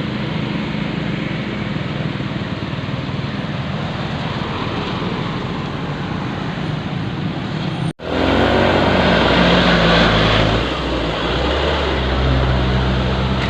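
Diesel engine of a loaded dump truck running steadily. The sound drops out abruptly for a moment about two-thirds of the way through, then comes back louder with a stronger engine note.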